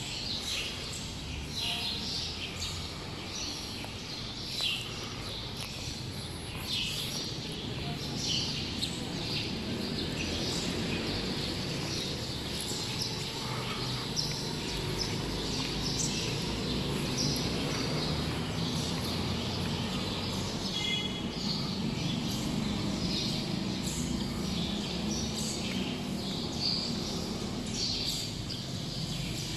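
Small birds chirping, with short high chirps scattered throughout and a quick run of chirps about two-thirds of the way in, over a steady low background rumble.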